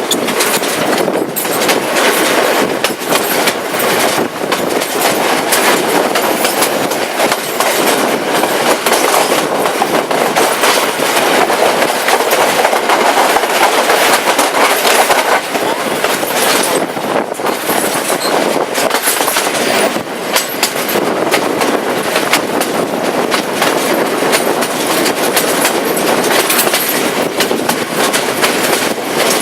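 Udarata Menike passenger train running along the line: a continuous loud rumble and clatter of carriage wheels on the rails, with frequent short knocks throughout.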